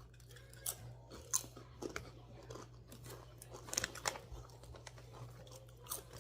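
Chewing crunchy ghost pepper potato chips, with scattered, irregular crisp crunches, a few of them sharper than the rest.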